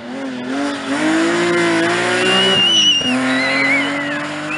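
Rally car engine revving hard, its pitch climbing and then dropping sharply twice near the middle, while the tyres squeal in wavering high tones through the second half.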